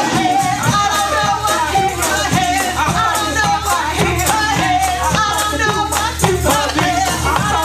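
Live gospel praise music with a steady fast beat, high hand percussion jingling on the beat, and voices singing over it.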